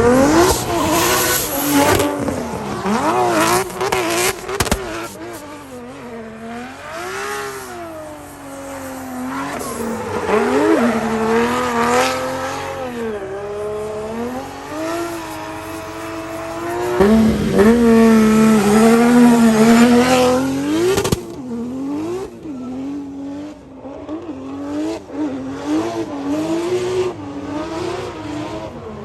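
Drift car on track, its engine revving up and down in repeated swells, held high for a few seconds and then dropping off sharply, with tires squealing.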